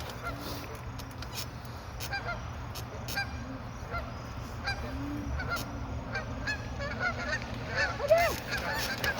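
A flock of geese honking, the calls sparse at first and then coming thick and loud toward the end as the flock takes off from the water.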